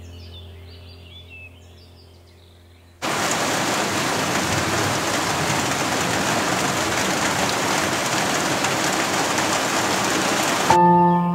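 Heavy rain pouring down steadily, starting abruptly about three seconds in and cutting off sharply near the end. Before it, faint music with bird chirps; after it, ambient music with a ringing chime tone.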